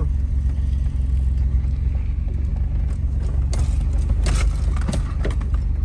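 Car driving slowly, a steady low rumble heard from inside the cabin, with a few brief rattles around the middle.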